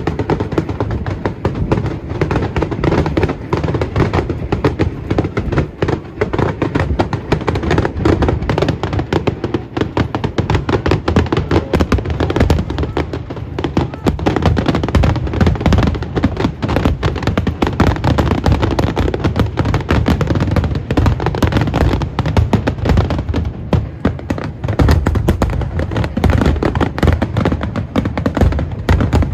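Fireworks going off in a dense, continuous barrage, many bangs overlapping with no break.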